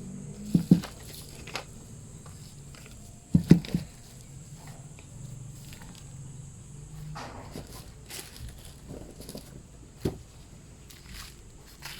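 A few dull knocks and thumps from things being handled and set down: a pair about half a second in, a louder cluster around three and a half seconds in, and one more near the end, with light clicks in between. No saw is running.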